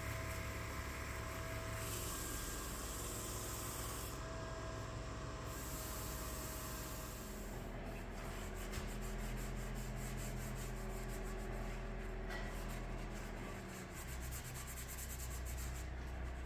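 Steady rubbing against wood spinning on a wood lathe, over the lathe motor's low hum; from about halfway through the rubbing takes on a rapid fluttering pulse.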